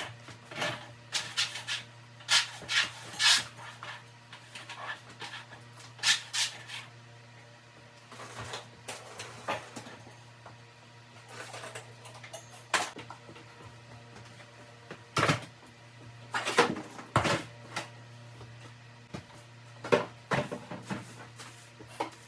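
Irregular knocks, clunks and scrapes of household items and furniture being picked up, moved and set down, over a steady low hum.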